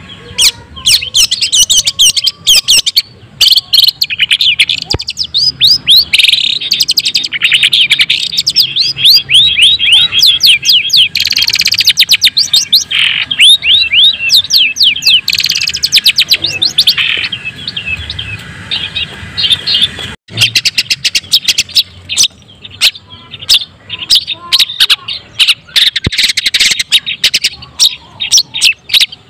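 Long-tailed shrike (cendet, white-breasted form) singing a fast, chattering song of rapid, sharp, high-pitched notes, pausing briefly about twenty seconds in.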